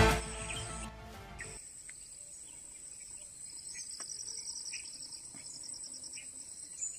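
Forest ambience of insects and birds: a steady high insect drone, a run of quick repeated chirps in the middle, and scattered bird chirps. A loud pitched sound dies away in the first second and a half.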